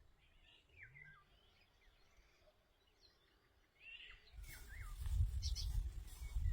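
Small birds chirping in short, quickly sliding calls. From about four seconds in, a low rumbling noise swells up and becomes the loudest sound.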